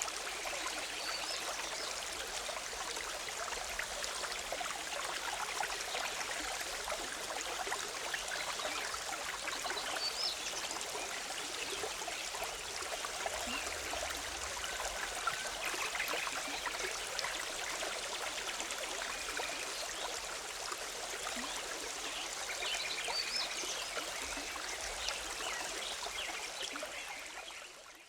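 Forest river bubbling and trickling steadily over rocks, with a few faint bird chirps now and then. The sound fades out near the end.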